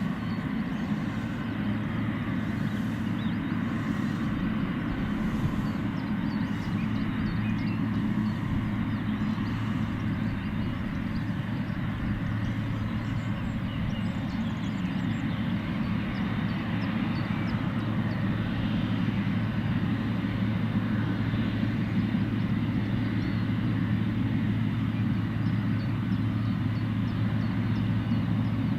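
Boeing 777's jet engines running at taxi power: a steady low hum with a faint, even whine above it.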